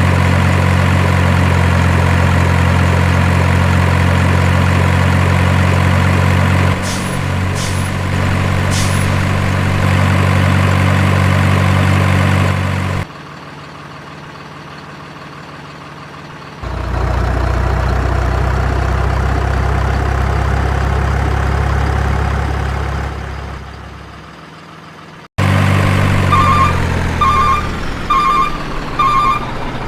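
Heavy diesel truck sounds cut together: an engine idling steadily with a few short air-brake hisses, then an abrupt cut to another idle that fades away. Near the end the truck's reversing beeper sounds about one and a half times a second, with more hisses.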